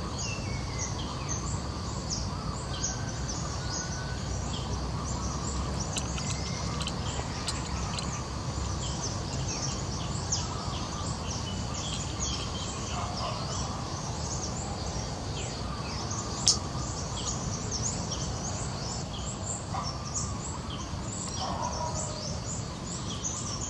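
Many birds chirping and calling over a steady low background noise, with one sharp click about two-thirds of the way through.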